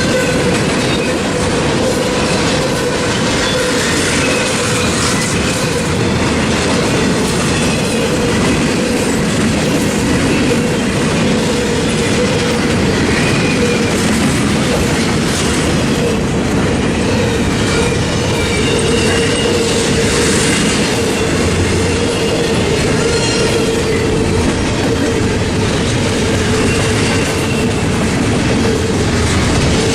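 Freight train rolling past: a steady rumble and clatter of wheels on the rails, with faint high wheel squeals now and then.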